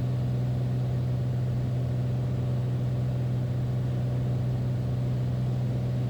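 Beechcraft Bonanza's six-cylinder piston engine and propeller droning steadily in the cabin, at reduced approach power with the gear down.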